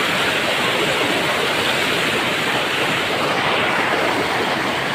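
Waterfall: water falling and splashing onto rocks in a loud, steady rush.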